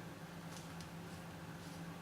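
Faint, brief soft scrapes of body filler being spread by hand, a few times, over a steady low hum.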